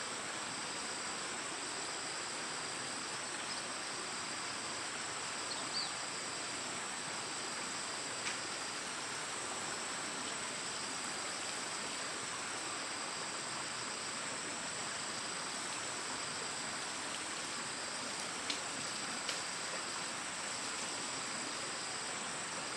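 A chorus of insects, crickets or cicadas, chirring steadily, with one high note pulsing on and off in long regular strokes. A few faint ticks come through now and then.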